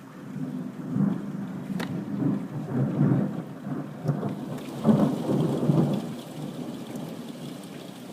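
Rolling thunder rumbling low, swelling about a second in and surging several times before fading off near the end, over steady rain.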